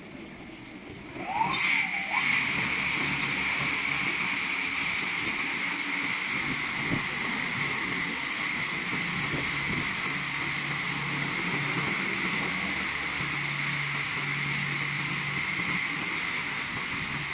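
Risense single-arm touchless car wash machine starting its high-pressure water spray about a second in, then a steady, loud hiss of water jets over a low pump hum.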